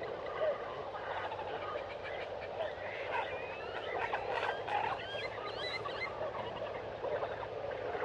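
Tropical forest ambience: a dense chorus of many small calls, short chirps and quick whistling glides, busiest in the middle, with frog-like croaking among them.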